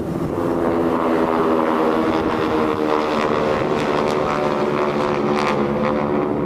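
A steady engine drone with a strong, even pitch and some wind noise over it.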